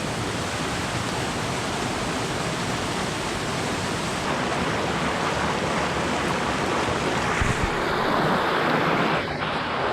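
Steady rush of a fast mountain stream, swelling a little louder in the last couple of seconds.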